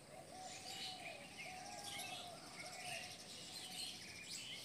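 Faint birds chirping in the background, with a lower arched call repeating several times.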